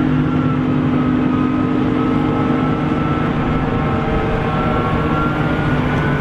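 Large diesel farm machinery running steadily under heavy load during corn chopping. It makes a constant deep engine drone with a faint higher whine above it.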